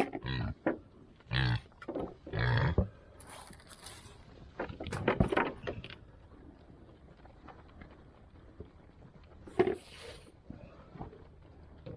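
Pigs grunting and squealing in several loud, rough bursts. Most come in the first few seconds, with another about five seconds in and one near the ten-second mark.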